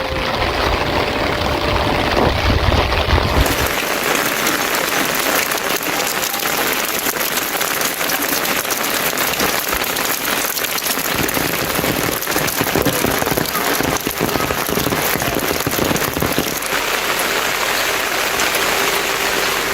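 Heavy rain falling steadily: a dense hiss with many fine drop impacts. A low rumble sits under it for the first three seconds or so, then stops abruptly.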